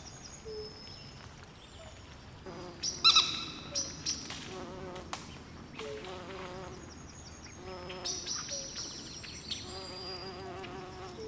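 Swamp wildlife ambience: many short high chirps and whistles over lower buzzing, wavering trills. The loudest is a cluster of calls about three seconds in, with a faint steady hiss underneath.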